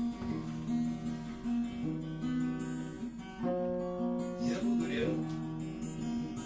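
Acoustic guitar strummed, chords ringing and changing every second or so, as the instrumental close of a song after the singing has stopped.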